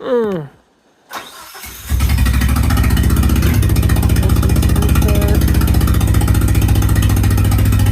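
A short falling tone, then the 1987 Nissan 200SX S12's engine is cranked and catches about two seconds in. It runs on steadily, its note stepping up slightly about a second and a half later, as a test start after a change to the ECU's injector-latency setting.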